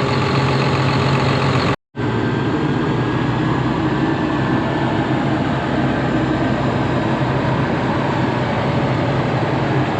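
A vehicle engine running steadily at idle, with a short break near two seconds in.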